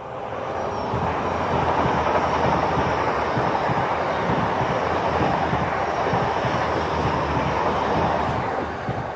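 LNER Azuma high-speed train passing close by at speed. The rush of the train on the rails builds over the first second or so as the front arrives, holds steady while the coaches go by, and eases near the end as the last coach clears.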